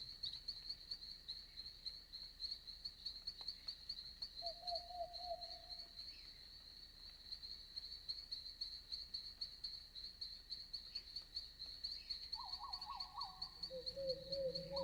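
Night insects, crickets by their sound, chirping in a steady high, rapidly pulsing trill. A short warbling call sounds about five seconds in, and a few lower trilling animal calls come in near the end.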